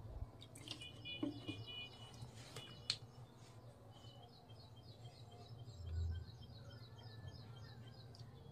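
Small birds chirping steadily in the background, short high chirps a few times a second, over a low hum. Sharp clicks come about a second in and again near three seconds as bottles are handled, and there is a dull thump about six seconds in.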